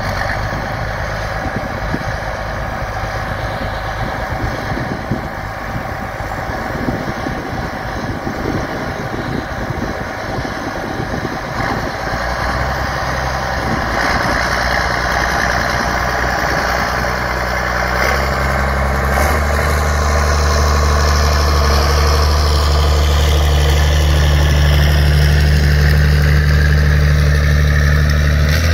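Tractor engine running steadily, getting louder in steps about halfway through and again about two-thirds of the way in.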